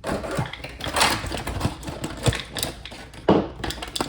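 Hands handling a toy's plastic packaging and accessories: a busy run of irregular crinkles and clicks, with a few sharper taps.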